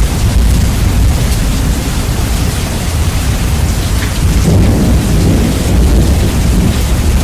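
Heavy rain with rolling thunder, bass-boosted so the deep rumble dominates and the whole thing is very loud. The thunder swells again about four and a half seconds in.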